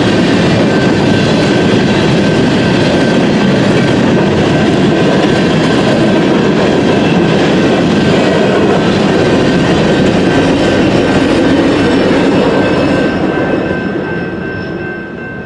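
BNSF freight train's cars rolling past at speed, a loud steady rumble and clatter of wheels on the rails that fades away over the last couple of seconds as the train recedes.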